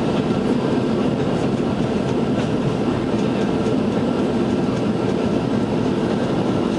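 Steady rumble and roar of a Boeing 737 heard from inside the passenger cabin during landing, with engine and airflow noise and no sudden bangs.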